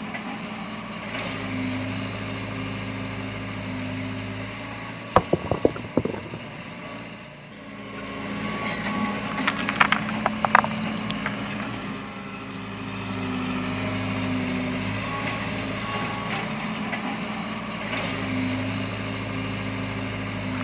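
Mini tractor's motor running with a steady hum that swells and eases. A short burst of clattering knocks comes about five seconds in, and a few more about ten seconds in.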